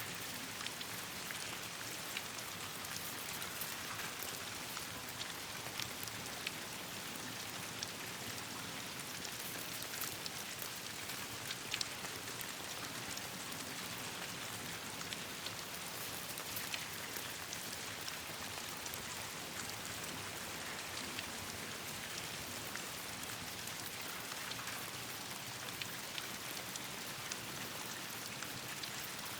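Steady rain falling on leaves, an even hiss with scattered sharp drop ticks and one louder tick about twelve seconds in.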